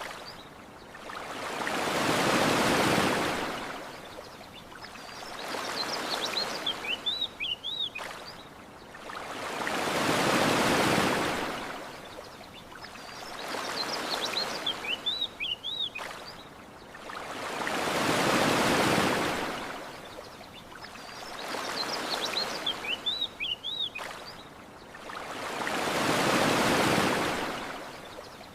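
Small ocean waves washing onto a shore, each swell rising and falling over about eight seconds with a smaller wash between. A bird gives short, quick chirps in the lulls, about once every eight seconds.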